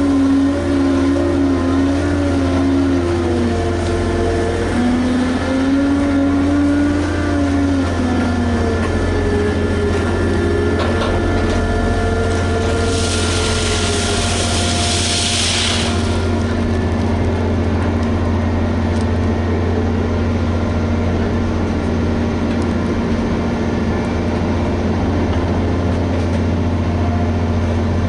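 Liebherr HS8200 dragline excavator working: its engine and machinery run steadily with a low hum, the pitch of the drive tones rising and falling over the first several seconds. About halfway through comes a hiss lasting some three seconds.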